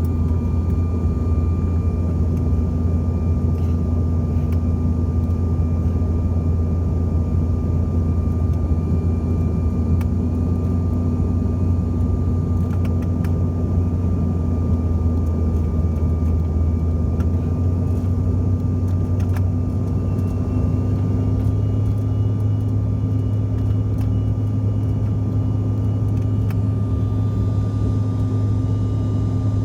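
Cabin noise of a CRJ700 regional jet in flight: a steady low drone from its rear-mounted CF34 turbofans and the airflow, with a thin steady whine above it. About two-thirds of the way through, the drone and the whine shift a little higher in pitch.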